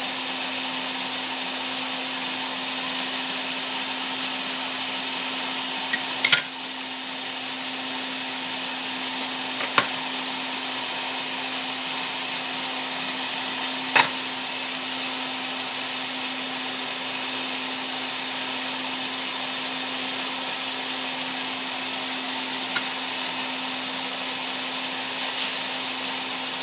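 Gas burner flame heating 12 mm glass tubing, with a steady hiss and a steady hum under it. A few sharp clicks come about six, ten and fourteen seconds in.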